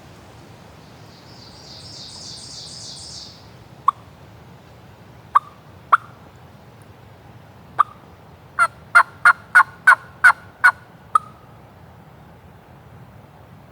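Wild turkey yelps: a few single yelps, then a run of about eight yelps at roughly three a second. A high buzzy trill sounds briefly before them.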